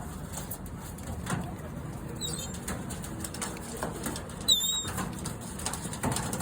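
A flock of gulls crowding in to be fed, with wings flapping and scuffling and scattered light knocks. There is a faint wavering call about two seconds in and a short, high call about four and a half seconds in.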